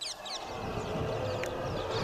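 Birds calling in quick series of short, high chirps that sweep downward, over a steady background hum.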